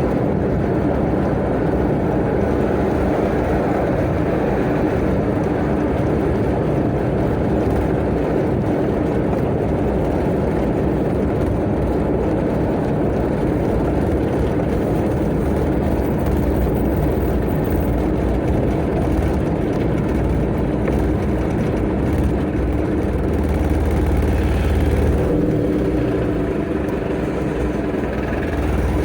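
Tata Ace mini truck's engine running steadily under way, with road noise. The engine note shifts near the end.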